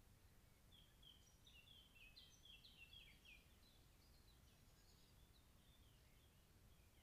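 Faint bird song: a quick run of short chirping notes starting about a second in, thinning out and fading by around six seconds, over a low, steady background rumble.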